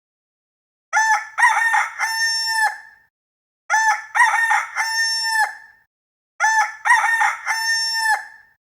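Rooster crowing three times, the same cock-a-doodle-doo repeated about every three seconds, each crow lasting about two seconds.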